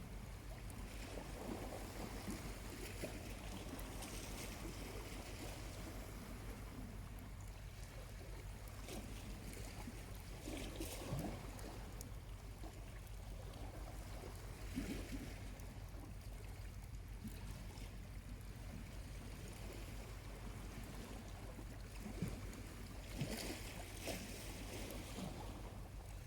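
Small waves lapping gently on a calm beach over a steady low rumble, with an occasional pop and crackle from a charcoal campfire.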